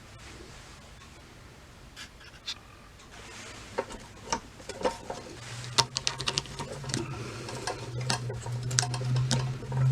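A string of sharp clicks and light knocks, sparse at first and busier from about three seconds in, with a steady low hum coming in about halfway and growing louder toward the end.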